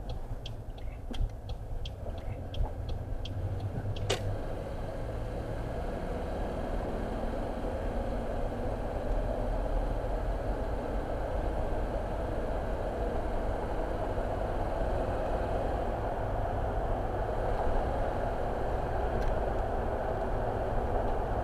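Car road and engine noise heard from inside the cabin, a steady low rumble that slowly grows as the car gathers speed. A turn indicator ticks lightly for the first few seconds, and one sharper click comes about four seconds in.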